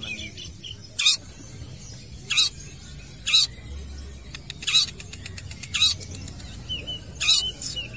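Long-tailed shrike (cendet) giving a series of short, sharp, harsh calls, about six of them roughly a second apart, over a faint low rumble.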